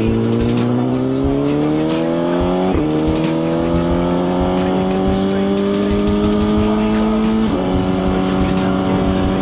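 Suzuki GSX-R1000 inline-four engine accelerating hard through the gears. Its pitch climbs steadily and drops sharply at two upshifts, about three seconds in and again near the end.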